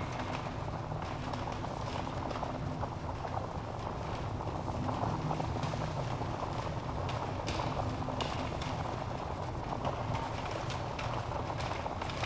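Wood logs burning in a fireplace: a steady low rush of flame with scattered crackles and a few sharper pops and snaps through it.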